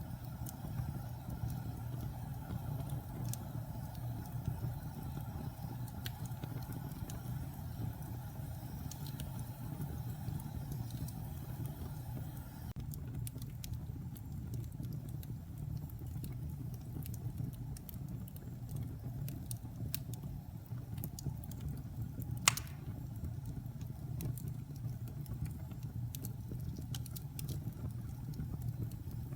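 Wood fire burning in a fireplace: a steady low rumble with scattered small crackles of burning wood, and one sharp, louder pop a little over twenty seconds in.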